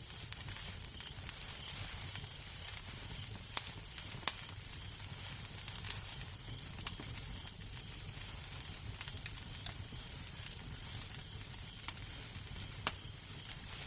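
Fireplace fire crackling: a steady hiss and low rumble with scattered sharp pops and snaps.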